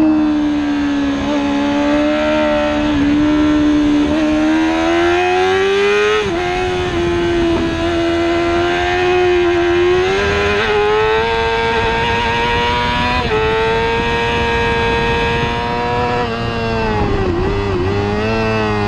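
Racing motorcycle engine at high revs, heard onboard while lapping a track. The pitch climbs and falls steadily, with a few sudden drops and jumps where the rider changes gear, and a constant rush of wind and road noise underneath.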